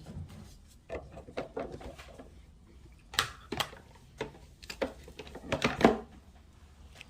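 Irregular clicks, taps and rustles of hands and utensils working over a casserole dish as shredded mozzarella is spread on top. There are louder clusters about three seconds in and again near six seconds.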